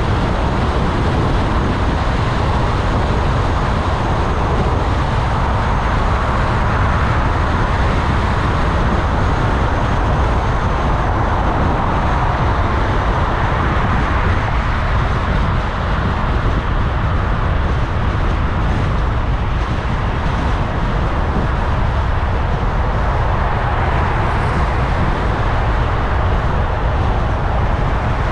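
Steady road noise of a car driving in city traffic: tyre roar and engine hum with a deep rumble underneath, even throughout.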